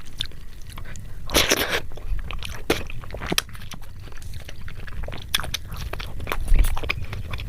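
Close-miked eating: crunchy bites and chewing, a run of short crackling clicks with a denser crunch about a second and a half in.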